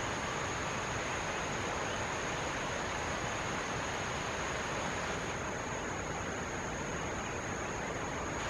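Steady rush of running stream water, with a constant high-pitched whine over it.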